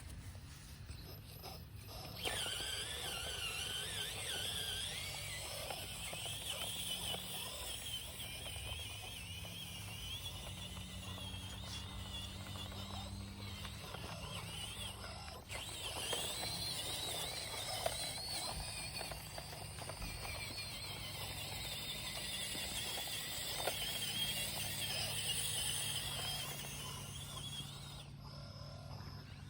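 Radio-controlled construction machine's electric motors whining, the high pitch wavering as it works. It starts about two seconds in and cuts off near the end.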